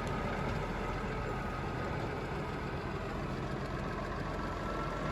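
Diesel tractor engine idling steadily, with a thin steady whine above the engine note.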